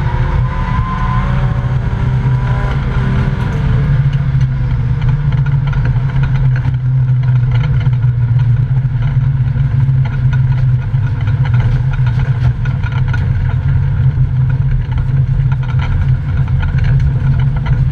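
Volvo 855 race car's five-cylinder engine heard from inside the stripped cabin, its revs falling over the first few seconds and then running steadily at lower revs, with a loud low drone and light rattles.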